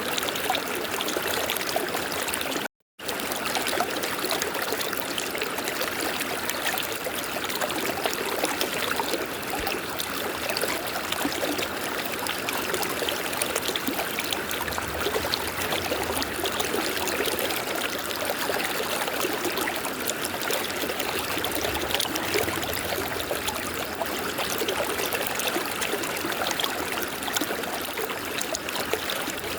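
River water flowing steadily, a continuous rushing and trickling. The sound cuts out completely for a moment about three seconds in.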